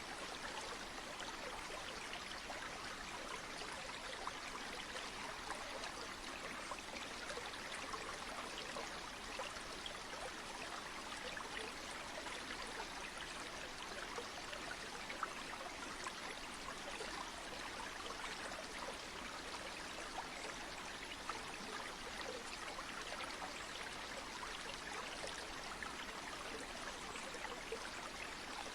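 A stream flowing steadily: an even rushing of water with many tiny splashes and trickles, unchanging throughout.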